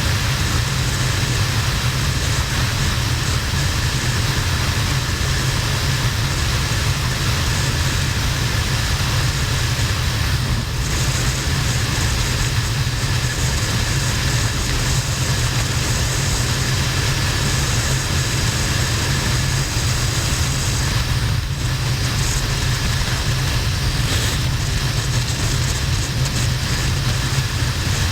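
Harley-Davidson XL1200N's 1200 cc V-twin running steadily at motorway speed, a constant low rumble under heavy, even wind and road noise.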